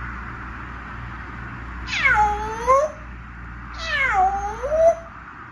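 African grey parrot imitating a cat's meow twice, each cry about a second long and sliding down in pitch before turning up slightly at the end.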